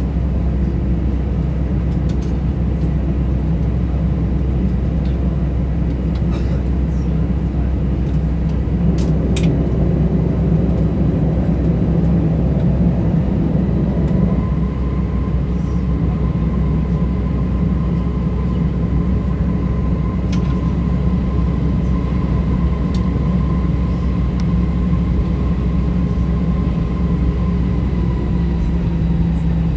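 Steady engine and cabin drone inside an Airbus A320 airliner, with a deep, even hum. A faint steady whine joins about halfway through and fades out near the end.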